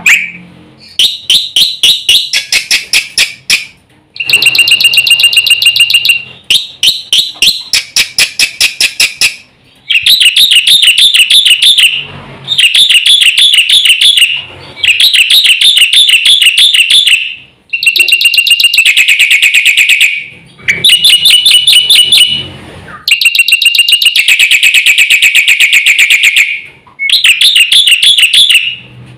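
Black-winged myna (jalak putih) singing loudly in fast, dense song phrases: rapid trains of shrill repeated notes and chatter, each burst lasting a couple of seconds with short breaks between.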